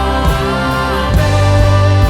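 Christian worship music: sustained chords over a bass line and a steady beat, with a deeper, stronger bass note coming in about a second in.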